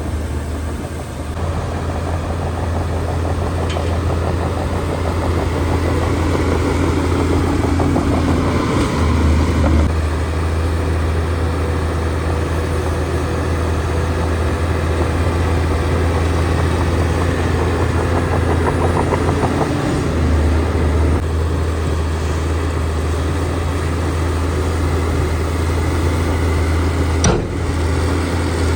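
Heavy diesel engine of earthmoving machinery running steadily with a deep hum, its note shifting a little twice, and a single sharp knock near the end.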